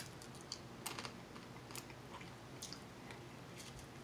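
A person chewing seafood with irregular soft mouth clicks and smacks.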